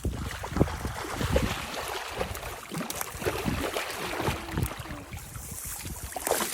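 Water splashing and sloshing in irregular strokes, with small clicks and drips throughout.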